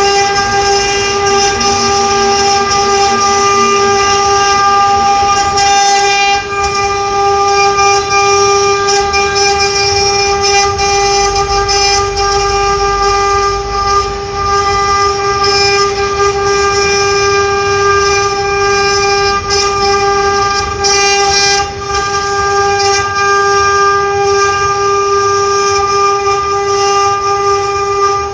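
Multi-spindle CNC router carving, its spindles running at high speed with a steady high-pitched whine that holds one pitch throughout, dipping briefly now and then.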